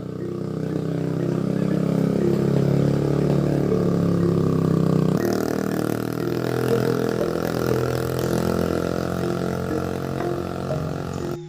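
An engine running steadily, with a stack of steady mid-pitched tones; the sound changes abruptly about five seconds in.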